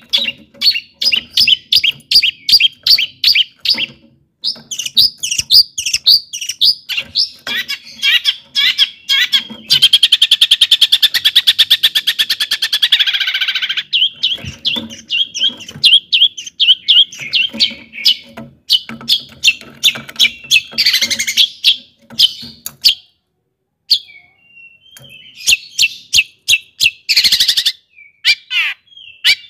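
Long-tailed shrike (cendet) singing loudly: runs of rapid repeated chirps, about four a second, broken by a fast buzzing rattle that starts about ten seconds in and lasts about three and a half seconds, then varied chirps and short phrases with brief pauses.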